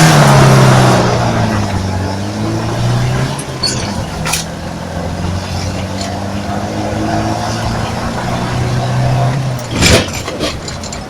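Moskvich car engine running on LPG, revving hard as the car launches from a standstill and accelerates, the note slowly climbing with a brief dip about four seconds in. A loud knock comes near the end, and the engine note then falls away.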